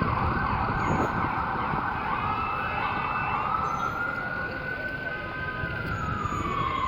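Emergency vehicle siren wailing, its pitch slowly rising and falling over several seconds, over steady city street noise.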